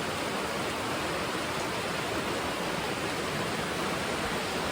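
Steady, hard rain falling: an even, unbroken hiss.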